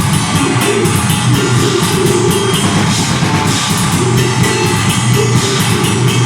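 Deathgrind band playing live at full volume: distorted guitars and bass under fast, dense drumming.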